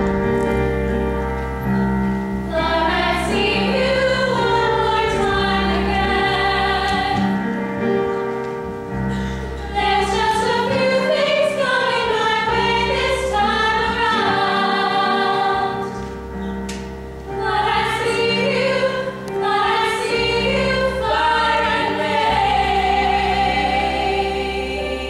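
A group of voices singing a slow song in harmony over sustained accompaniment chords, phrase by phrase with brief breaths between lines.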